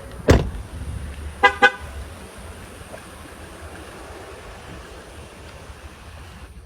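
A car door slams shut, then about a second later the car's horn gives two short chirps in quick succession, the way a car sounds when it is locked with the key fob.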